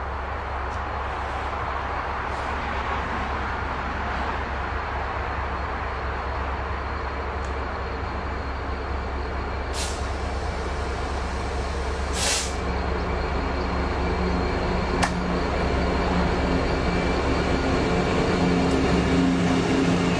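Train running with a steady low hum, with two short hisses of air partway through. A pitched engine note swells over the last few seconds.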